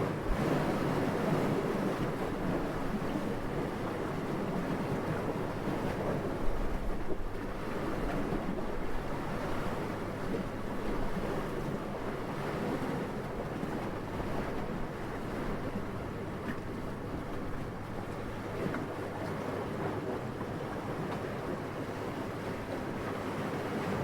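Gentle wind blowing in a steady rush, swelling slightly in the first seconds, with a brief low gust about six and a half seconds in.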